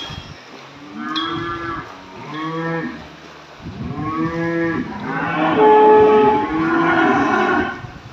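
Cattle mooing, a series of drawn-out calls one after another that grow louder and overlap in the second half, as from several animals.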